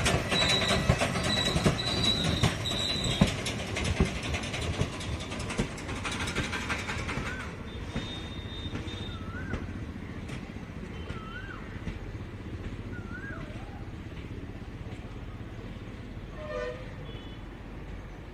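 Freight train's covered BCNAHM wagons and brake van rolling past: wheels clattering over rail joints, with a high wheel squeal in the first few seconds. The sound then fades steadily as the train recedes. Through the fade, a short rising-and-falling whistle-like call repeats about every couple of seconds.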